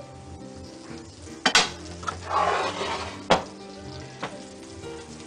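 Floured vegan cutlets frying in hot olive oil in a pan: the sizzle swells up for about a second a couple of seconds in, as a piece goes into the oil. Three sharp clicks of a utensil against the pan, with soft background music underneath.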